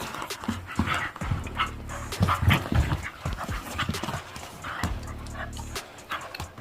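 Two pet dogs roughhousing, panting and making short grunts and noises in irregular bursts.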